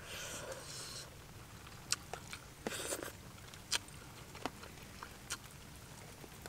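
A person chewing grilled fish and rice eaten by hand: soft mouth sounds with scattered small sharp clicks.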